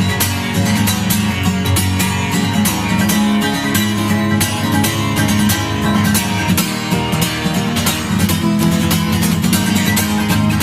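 Instrumental passage of a rock song: strummed guitar with a steady, regular beat and no singing.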